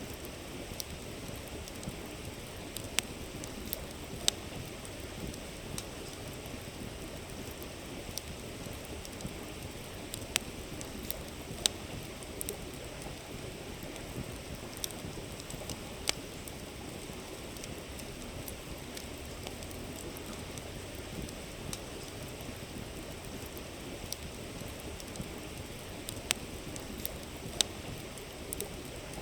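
A river flowing steadily, with a wood campfire crackling over it: scattered sharp pops and snaps, a few of them standing out louder.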